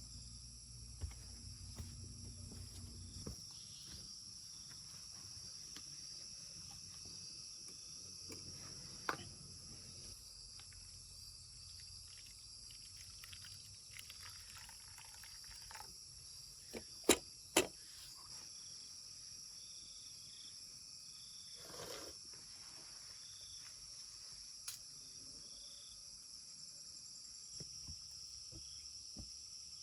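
Insects, crickets among them, chirring steadily at a high pitch. A few sharp knocks sound over it, the loudest two about half a second apart a little past halfway.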